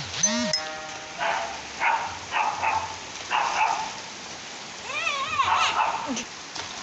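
Steady rain falling, with a dog barking several times in short bursts and a longer wavering yelp about five seconds in.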